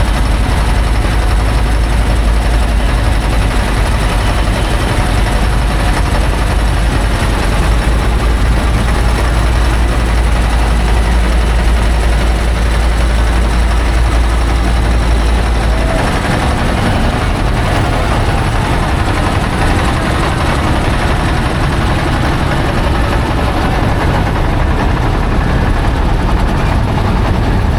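A steady, loud engine rumble with a wash of noise. The deepest part of the rumble drops away about 16 seconds in.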